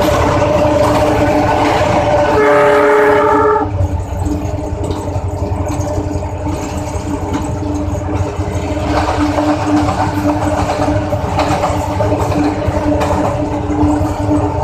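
Locomotive running, heard from inside the cab, with one horn blast about two and a half seconds in that lasts just over a second. The running sound is loud and echoing while the train is in the tunnel, then drops to a steadier engine hum with a low rumble as it comes out into the open, about four seconds in.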